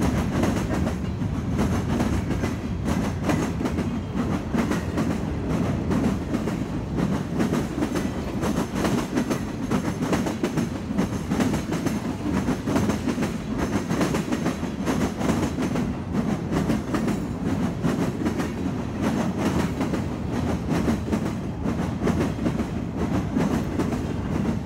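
Freight cars of a mixed manifest train (covered hoppers, tank cars and boxcars) rolling past at close range: a steady rumble of steel wheels on the rails with continuous clickety-clack from the wheels over the track.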